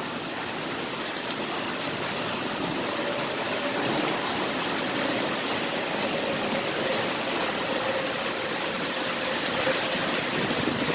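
Heavy rain coming down steadily, a continuous even hiss of water, with a faint steady hum underneath through the middle.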